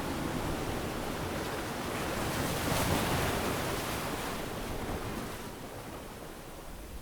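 Ocean waves breaking on a beach: one wave swells to a hiss of surf about three seconds in, then washes back and dies down.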